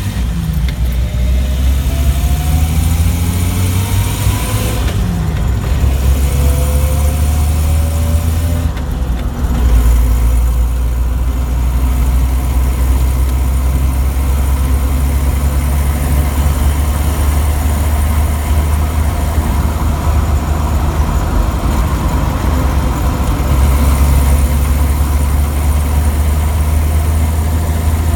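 1993 Jeep Wrangler YJ with an AX-15 manual transmission being driven: the engine rises in pitch through the gears, with breaks at the shifts about five and nine seconds in, then runs steadily. Under the running there is a light tick that speeds up and slows with road speed, which the owner believes comes from the transmission.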